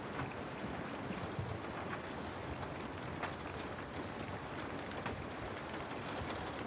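Steady rain falling, a continuous hiss with scattered drops ticking now and then, in the manner of rain on a window.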